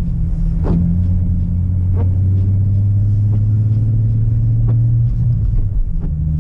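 Car engine and road noise heard from inside the cabin while driving on snowy streets in a low gear, a steady low drone that drops lower about five seconds in. Faint light ticks come about every second and a half.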